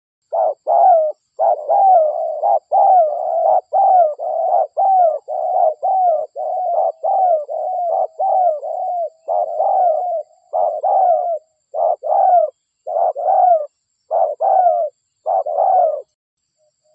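Spotted dove (derkuku) cooing: a long, rapid, steady run of loud coos, about one a second, each note bending up and then falling in pitch. It stops about a second before the end. This is a lure call played to draw wild spotted doves in.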